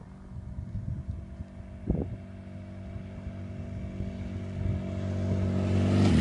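Motorcycle engine, the air-cooled flat-twin of a BMW R80-based cafe racer, running and growing steadily louder, ending in a loud rush of noise. There is a short knock about two seconds in.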